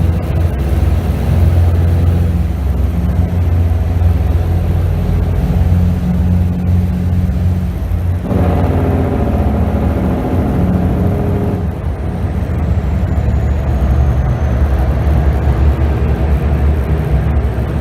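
Heavy truck's diesel engine running at steady road speed, a low continuous drone; the tone shifts for a few seconds from about eight seconds in, then settles back.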